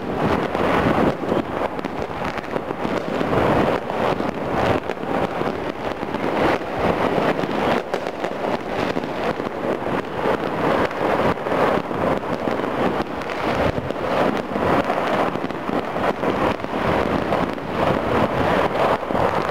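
Many firecrackers and fireworks going off at once across a city, countless pops and bangs blurring into a steady, dense crackling din.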